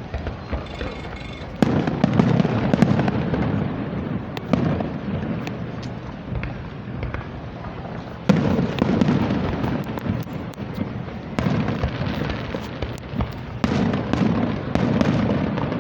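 Fireworks display: sudden loud booms about one and a half, eight and thirteen and a half seconds in, each followed by a rolling rumble and many sharp crackles and pops.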